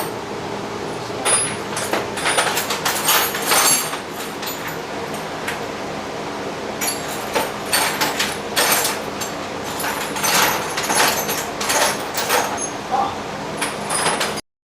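Small metal hand tools clicking and clinking in clusters of quick strokes as hex keys and sockets are tried on a bolt of the wrong size, over a steady background hum.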